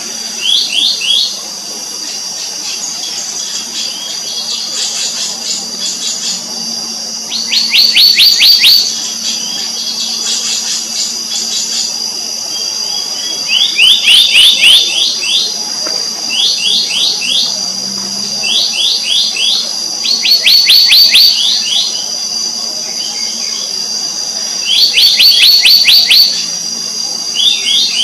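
Black-naped monarchs calling in quick series of rising, ringing notes, each series about a second long, repeated many times. A steady high-pitched insect drone runs underneath.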